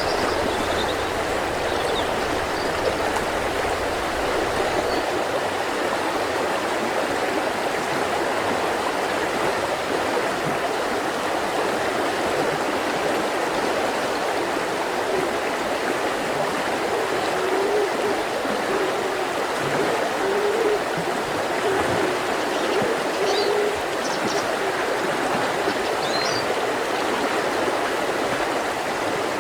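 Mountain river flowing steadily over rocks, an even rushing with gurgles. A few faint bird chirps come through near the start and again near the end.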